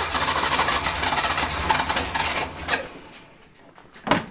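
Datsun 240Z's inline-six being cranked over by its starter in an attempt to start it, a fast, loud mechanical churning that dies away about three seconds in. A short sharp knock comes near the end.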